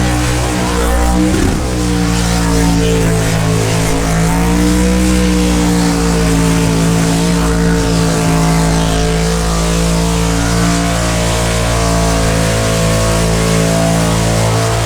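V8 car engine held at high, steady revs in a burnout, its pitch dipping and swinging back about a second and a half in and again around four to five seconds in.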